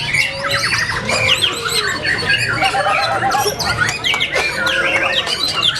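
White-rumped shamas (murai batu) singing in a dense overlapping chorus of loud whistles, fast glides, trills and harsh rattling notes, with a low crowd murmur beneath.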